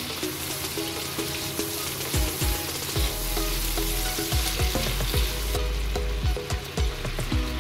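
Chicken pieces sizzling in melted butter in a wok, with a silicone spatula stirring and knocking against the pan from about two seconds in. The sizzle quietens a little near the end as grated carrot is tipped in.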